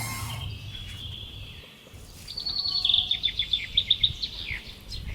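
A songbird singing a quick run of repeated high chirps. The run starts about two seconds in and lasts about two seconds, and its last notes slide downward.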